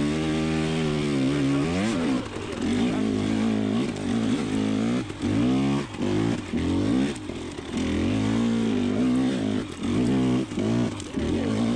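2020 KTM 300xc TPI two-stroke dirt bike engine being ridden, its revs repeatedly climbing and dropping as the throttle is worked on and off.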